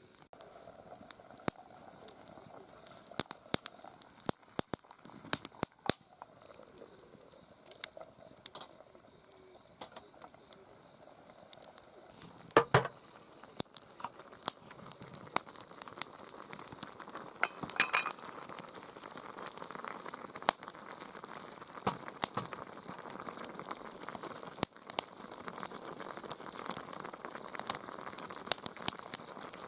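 Campfire crackling with frequent sharp pops, and food sizzling on the fire, the sizzle growing louder about two-thirds of the way through.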